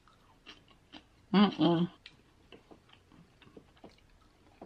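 Close-miked chewing and wet mouth clicks as a woman eats, with a short hummed voice sound about a second and a half in.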